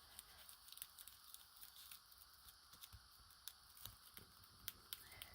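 Near silence: room tone with a few faint, scattered ticks and clicks from small handling of paper and cellophane.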